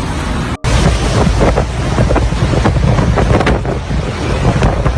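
Hurricane-force wind buffeting the microphone: loud rushing noise with a heavy low rumble. The sound drops out for an instant about half a second in, then carries on.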